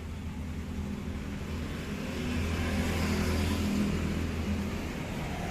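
A motor vehicle engine running with a steady low hum, swelling louder around the middle and easing off toward the end.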